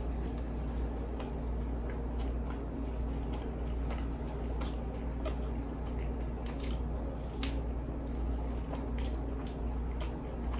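Close-miked chewing of a sauce-coated crispy chicken tender: irregular wet smacks and sharp mouth clicks, over a steady low hum.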